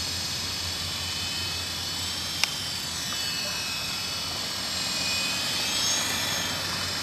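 RC model helicopter's motor and rotor whining steadily as it is brought in to land. The pitch wavers slightly about five to six seconds in, and there is one sharp click about two and a half seconds in.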